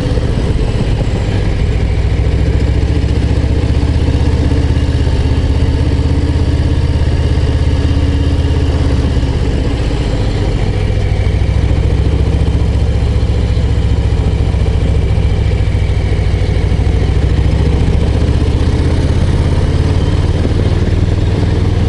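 Harley-Davidson Low Rider ST's Milwaukee-Eight 117 V-twin pulling the bike uphill, a steady deep exhaust note. The note dips briefly about ten seconds in, then picks up again.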